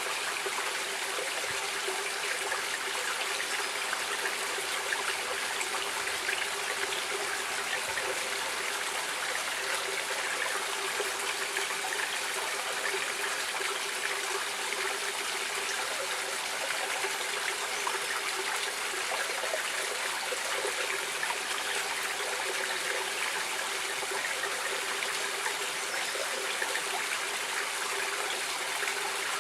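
Water in a stream flowing steadily, an even rushing sound dotted with many small splashes and trickles.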